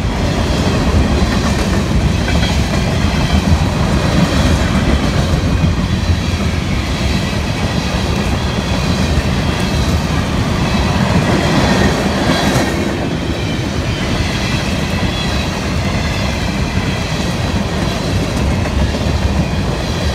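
Freight train of tank cars rolling past at close range: a steady rumble of steel wheels on the rails, getting a little quieter near the end as the last cars go by.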